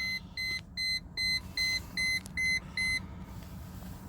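Car warning chime of a 1999 Mercedes beeping about twice a second, with the ignition on for glow-plug preheating before a cold start of the OM606 turbo diesel. The beeps stop about three seconds in, leaving a faint low hum.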